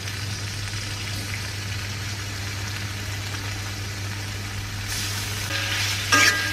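Garlic and chicken slices sizzling in oil in an aluminium wok over a steady low hum. The sizzle grows louder about five seconds in, and near the end a metal spatula scrapes and clinks against the wok with a ringing tone.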